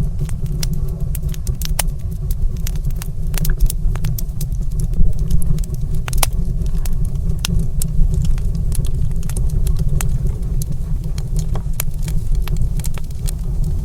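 Wood fire crackling in a stone fireplace: irregular sharp pops and snaps over a steady low rumble.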